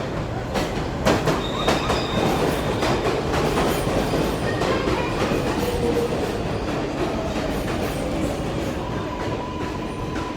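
New York subway 7 train pulling into the station. Its wheels clack over the rail joints in the first few seconds, then squeal as it slows, and a steady high whine sets in near the end.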